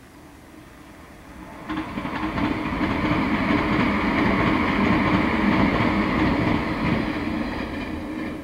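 Electric passenger train passing on the rails. It comes in abruptly about two seconds in, stays loud through the middle, and fades near the end.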